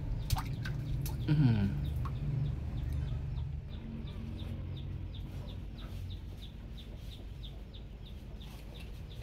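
A bird calls once about a second in, a short falling squawk that is the loudest sound, after a couple of sharp knocks. Faint high chirps follow, repeating about three times a second.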